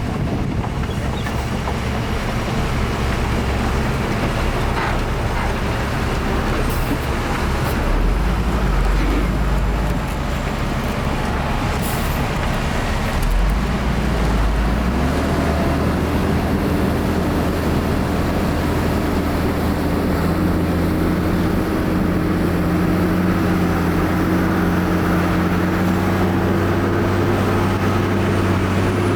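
Heavy diesel earthmoving machinery running under load. The engine note climbs about halfway through and then holds at a higher, steady pitch.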